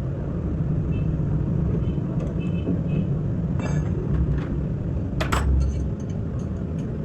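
Steady low mechanical rumble of workshop background, with a few short sharp clicks over it, the loudest about five seconds in.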